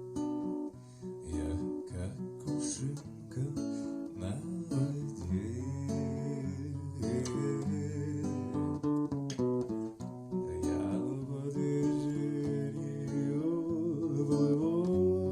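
Acoustic guitar playing a song's instrumental introduction, plucked and strummed chords.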